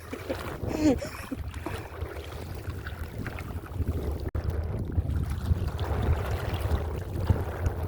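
Wind buffeting the microphone: a steady, uneven low rumble, with faint noise of open water behind it.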